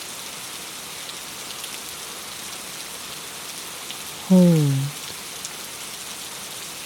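Steady rain falling against a window: an even hiss with faint scattered drop ticks.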